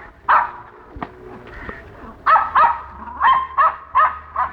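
Puppy yapping in short high-pitched barks: one early, then a quick run of about six barks in the second half, roughly three a second.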